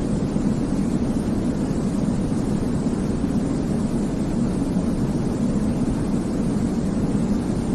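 Steady, deep white noise for baby sleep: an even rushing hiss, weighted toward the low end, that does not change.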